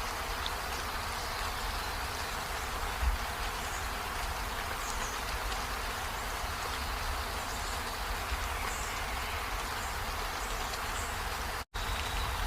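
Steady rain falling, an even hiss with a low rumble underneath, cut by a split-second dropout to silence near the end.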